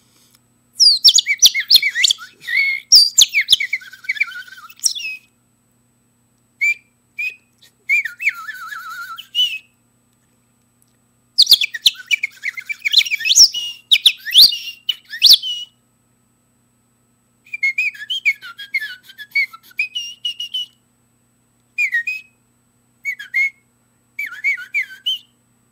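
A man whistling birdsong imitations with his mouth alone, no whistle or toy: rapid high-pitched chirps and warbling trills. They come in four long bursts separated by silences, then a few short single chirps near the end.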